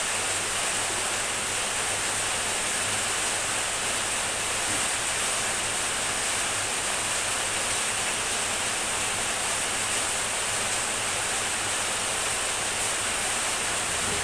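Heavy rain falling steadily, an even hiss with no distinct drops or breaks.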